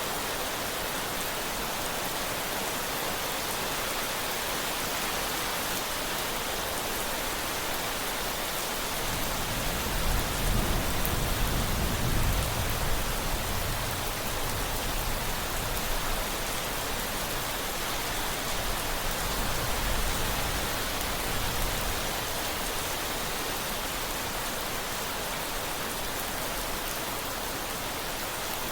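Steady rain with a low roll of thunder that builds about a third of the way in, peaks a few seconds later and rumbles away over roughly ten seconds.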